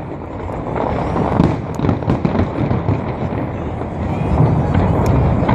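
Fireworks exploding in a dense barrage of booms and crackling, a little louder near the end.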